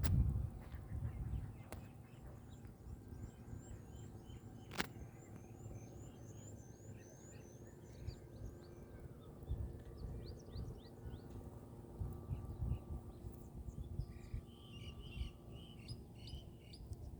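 Small birds chirping outdoors: a quick run of thin, high, falling chirps in the first few seconds, then scattered chirps and short calls from other birds, over a low rumble of wind or handling noise, with one sharp click about five seconds in.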